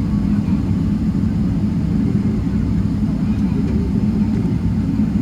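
Steady low rumble of a Boeing 777-300 cabin on the ground, with the engines running at idle as the airliner waits or taxis before takeoff.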